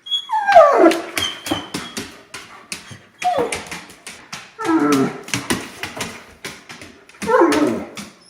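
Excited dog whining and yowling four times, each call sliding down in pitch, with many sharp clicks in between. It is worked up at the prospect of a walk.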